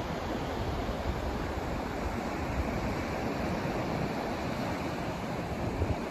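Steady white-noise rushing sound with no breaks and a restless low rumble underneath.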